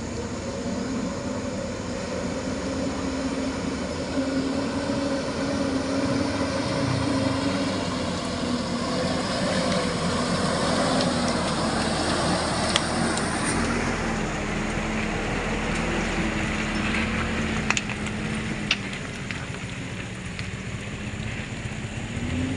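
Truck engine running under load, its pitch holding steady, then sagging slowly and rising again near the end. A few sharp knocks can be heard in the second half.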